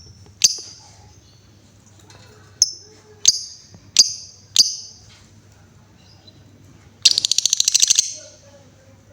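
Female lovebird calling: five sharp, high 'ngetik' chirps spaced well under a second apart, then about 7 s in a rapid chattering trill lasting about a second, the start of its 'ngekek' call.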